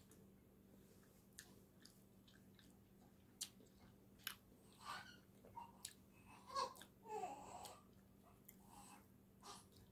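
Close-up chewing of a soft tortilla tuna wrap: faint mouth clicks and smacks, scattered and irregular, with a few louder ones about halfway through.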